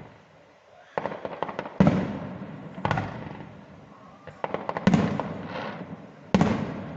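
Fireworks display: aerial shells bursting with sharp bangs about once a second, each fading away over a second or so, with quick crackling strings between some of the bangs.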